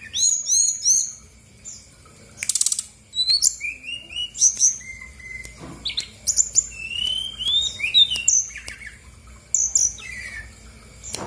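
Brown-chested jungle flycatcher singing: a varied run of high, quick slurred whistles and chirps in short phrases, with a brief rapid buzzy trill about two and a half seconds in.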